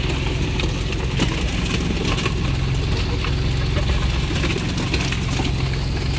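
A boat-mounted engine on a small fishing boat running steadily at a low idle hum, with scattered light clicks and rattles over it.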